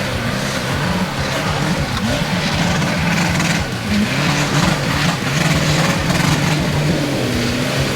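Off-road 4x4 truck engine revving hard under load on a hill climb, its pitch rising and falling as the throttle is worked.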